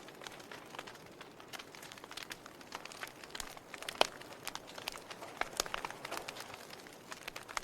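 Log fire crackling: irregular sharp pops and snaps from burning wood over a low hiss, with one louder pop about four seconds in.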